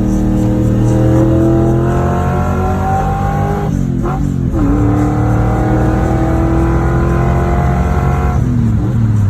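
Car engine accelerating, its pitch climbing steadily, dropping with a gear change about four seconds in, then climbing again before easing off near the end.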